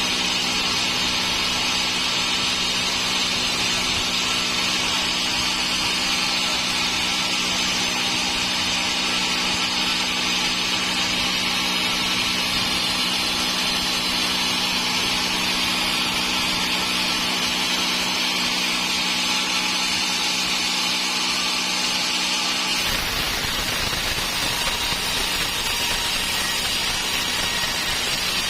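Sawmill saw running steadily while cutting through dry teak, a continuous machine hum under a hissing cut. Toward the end the sound changes abruptly.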